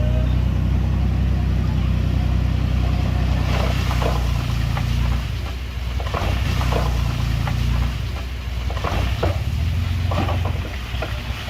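Heavy diesel construction machinery engine running steadily under load, with a series of short sharp clanks and scrapes starting about three and a half seconds in.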